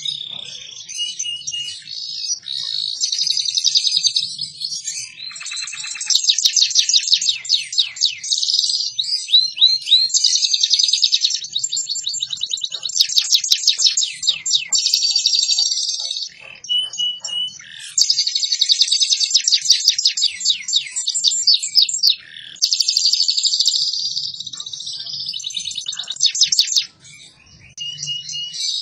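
Canary singing a long song of very fast, tight trills and rolls, broken by short pauses every few seconds.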